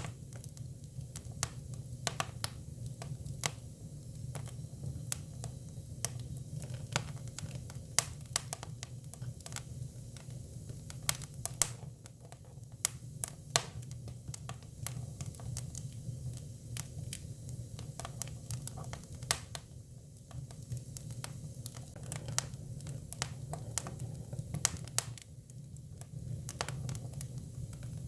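Hinoki cypress firewood burning, crackling with irregular sharp pops over a steady low hum.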